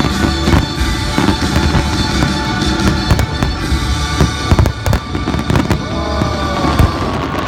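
Fireworks bursting in quick succession, many sharp bangs and crackles, with the loudest bangs a little past the middle and near the end. Music from the show's loudspeakers plays underneath.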